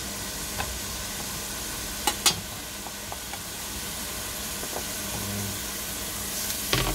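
Minced garlic and ginger sizzling in hot oil in a wok, a steady hiss. A few sharp taps of a knife against a plastic cutting board cut through it, the loudest two close together about two seconds in.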